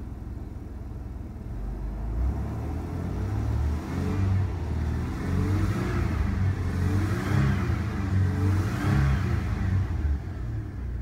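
Toyota 3.4-liter V6 engine, heard from the driver's seat, idling, then revved up and down several times from about two seconds in, to roughly 3,500 rpm, before dropping back toward idle near the end. It is being revved in neutral as a test of a used engine.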